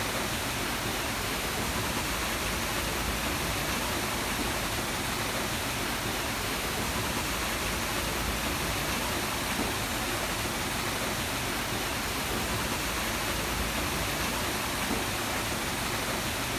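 Steady rushing noise of wind and water passing a moving boat, with a low rumble underneath.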